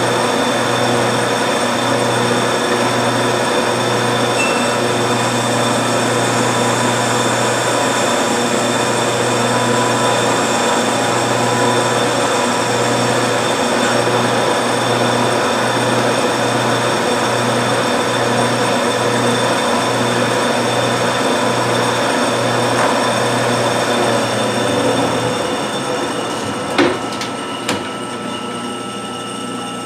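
A 1952 Wade 7 turret lathe running under power, a steady machine drone with a low hum that pulses about twice a second. About 25 s in the noise drops off, followed by a few sharp metallic knocks.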